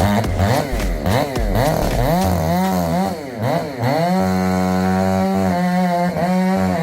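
Two-stroke chainsaw engine revved up and down in quick repeated throttle blips, then held steady at high revs.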